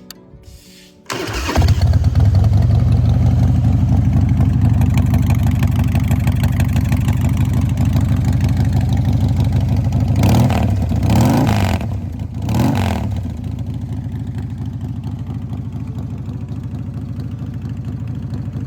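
2000 Harley-Davidson Softail FXSTC's Twin Cam V-twin starting about a second in and running at a fast idle. A few quick throttle blips come in the middle, and then it settles to a lower, steady idle.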